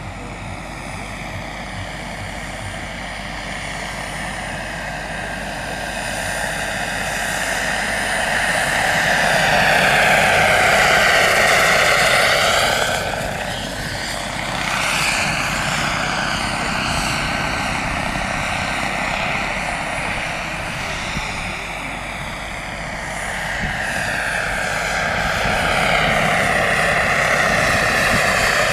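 Radio-controlled scale model helicopter flying past. Its rotor and engine sound swells as it passes about ten seconds in, eases off, then grows louder again near the end.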